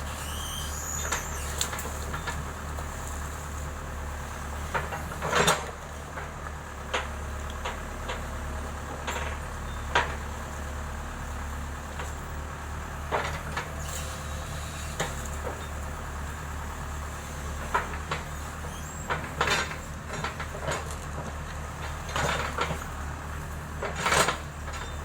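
Heavy-equipment diesel engine running steadily at a low drone, with irregular clanks and knocks over it, the loudest about five seconds in, about ten seconds in and near the end.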